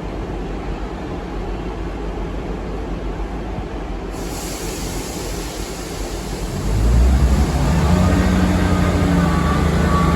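Railway rumble, then about seven seconds in a diesel locomotive's engine comes in loud and holds a steady low note.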